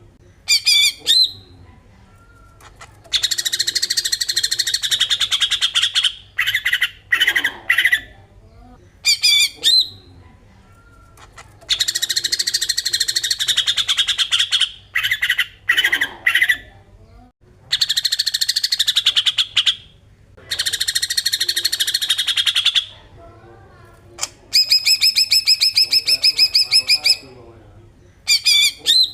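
Cucak ijo (green leafbird) singing in the rapid 'besetan' style: loud bursts of a fast, rattling trill, each one to three seconds long, come one after another with brief pauses. Shorter clear whistled phrases are mixed in between the bursts.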